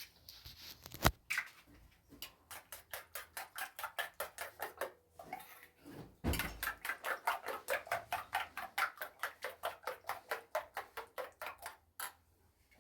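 Rapid, even scrubbing strokes, about five a second, in two long runs with a short break between them. A single sharp knock about a second in is the loudest sound.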